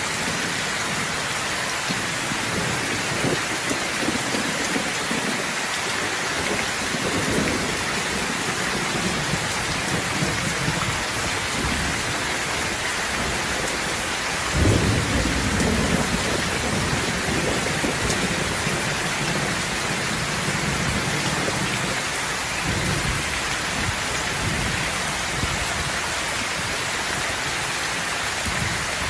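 Steady heavy rain falling, with low rolls of thunder, the loudest a sudden clap about halfway through that rumbles away over several seconds.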